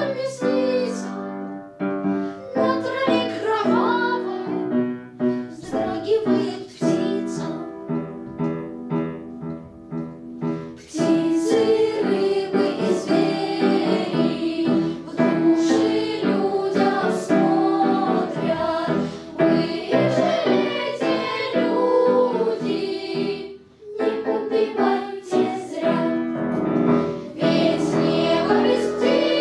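A song sung with piano accompaniment; the singing fills out and grows louder about eleven seconds in.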